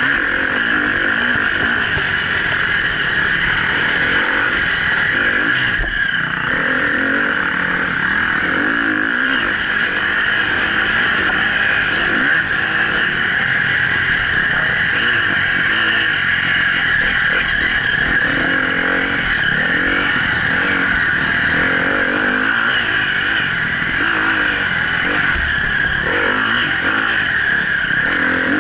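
Enduro motorcycle engine running hard at speed, heard close up from a camera mounted on the bike, its pitch rising and falling continually as the rider works the throttle and gears.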